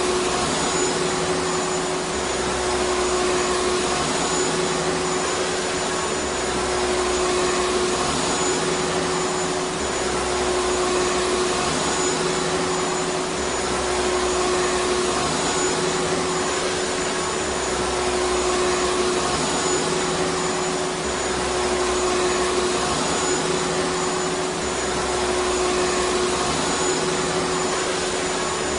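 Vacuum cleaner motor running steadily, a dense rushing noise with a steady hum-like whine held at one pitch and a faint low throb that comes and goes about every two seconds.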